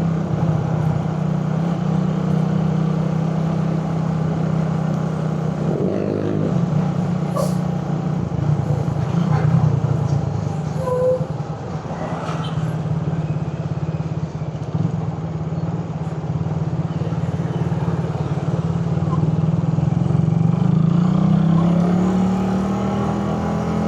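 Suzuki Raider 150 carbureted single-cylinder four-stroke motorcycle engine running under way in traffic, its note rising near the end as it speeds up.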